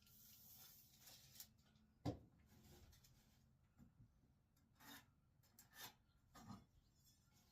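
Near silence with a few faint, scattered clicks and light rubbing noises.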